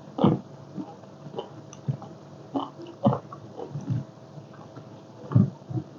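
Close-miked chewing of spicy seafood papaya salad: irregular wet smacks and crunches at uneven intervals, loudest just after the start and again about five seconds in.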